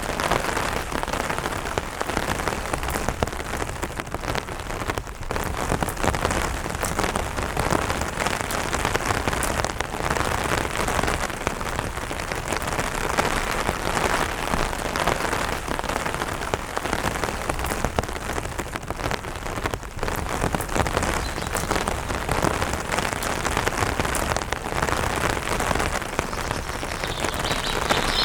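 Steady rain falling on an umbrella canopy, with many separate drops striking the fabric at an even, unchanging level.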